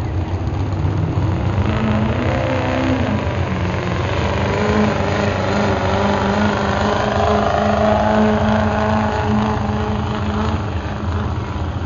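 Pulling truck's engine at high revs under full load as it drags the weight sled. It revs up about two seconds in, holds a steady pitch, and eases off near the end.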